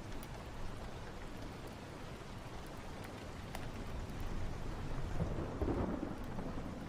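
Steady rain with a roll of thunder that rumbles up about two-thirds of the way through and fades near the end. A few faint sharp crackles sound over the rain.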